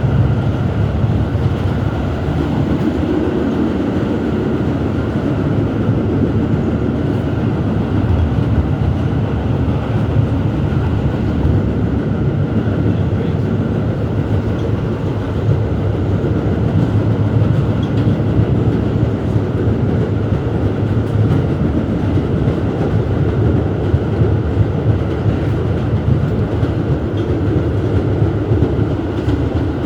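R211S train car running along the track, heard from inside: a steady rumble of wheels on rail with some clickety-clack.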